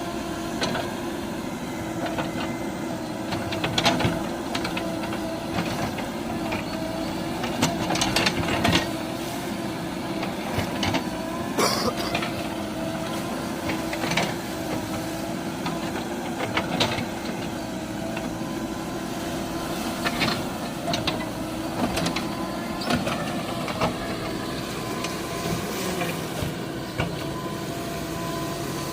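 Heavy vehicle's diesel engine running steadily, with scattered sharp clanks and knocks throughout.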